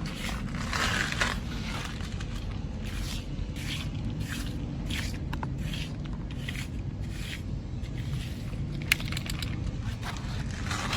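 Radio-controlled construction toy scraping and pushing dirt: short scratchy scrapes repeating every half second or so over a steady low rumble, with one sharp click about nine seconds in.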